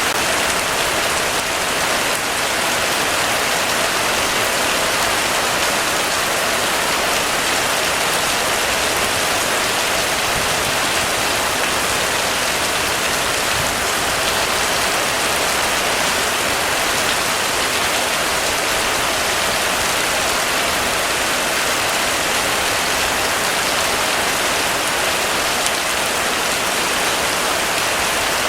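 Heavy rain falling steadily, an even rushing hiss of drops on surfaces with no thunder or distinct events.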